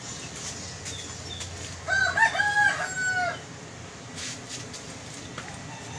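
A rooster crowing once, about two seconds in: a few short rising notes run into a long held note that drops away at the end.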